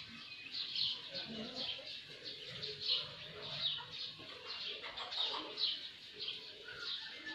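Birds chirping: short, high chirps repeating about twice a second, with fainter lower calls underneath.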